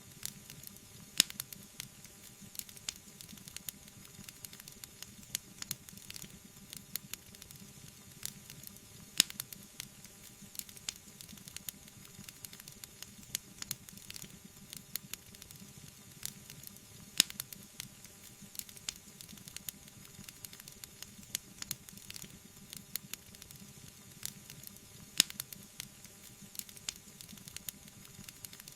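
Wood fire crackling: a steady soft hiss with many small pops and snaps. Four sharper pops stand out, evenly spaced about eight seconds apart.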